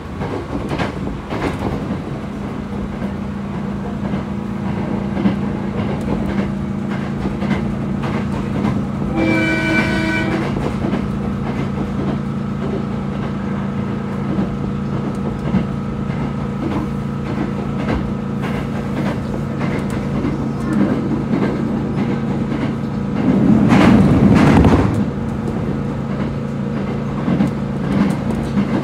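Passenger train heard from inside the car while running at speed: a steady running noise with a low hum. About nine seconds in a horn sounds for about a second, and near the end a louder rush lasts about two seconds.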